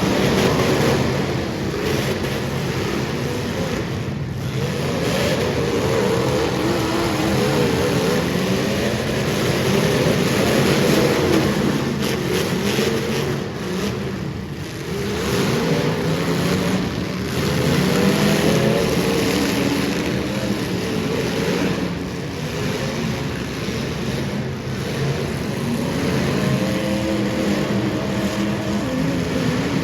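Super stock race car engines running on track, their pitch rising and falling again and again as the cars accelerate and back off, over a steady rushing noise.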